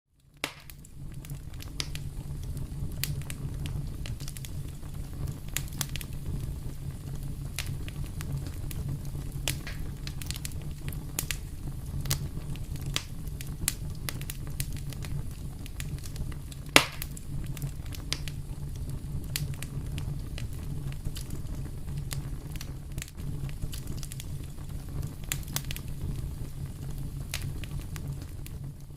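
Fire burning in a fireplace: a steady low rumble of flames with scattered crackles and pops, the loudest pop a little past halfway.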